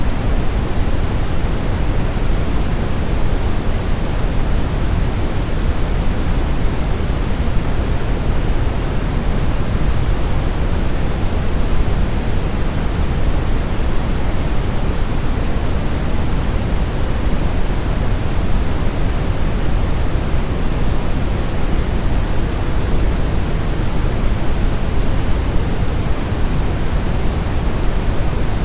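Steady brown noise: an even, unbroken rushing hiss weighted toward the low end, with no changes or events.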